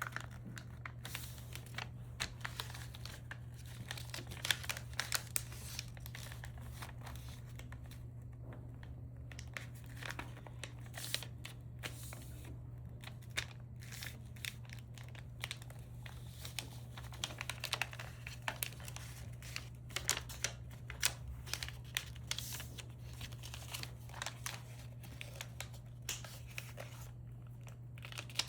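Irregular crinkling and crackling of material being handled by hand, over a steady low hum.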